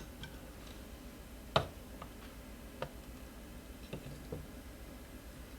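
A few scattered light clicks and knocks of metal parts, the loudest about a second and a half in, as the e-scooter's rear wheel and axle are handled and fitted back into the forks.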